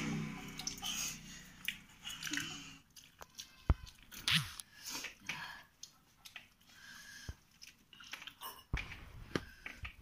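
Close-up chewing and mouth smacking of people eating rice and curry with their hands, with scattered sharp clicks and crunches.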